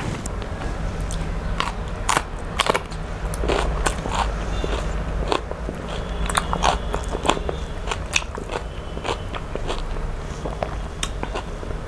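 A person eating close to the microphone: chewing with irregular crisp crunches and sharp mouth clicks throughout.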